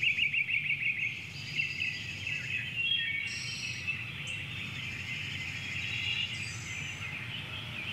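Several birds chirping and trilling together, with a fast trill of rapidly repeated notes in the first second, over a steady low background rumble.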